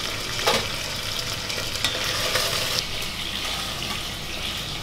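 Diced chicken breast sizzling steadily in very hot vegetable oil in a stainless steel pot as the browned pieces are lifted out with a spoon. A short knock sounds about half a second in.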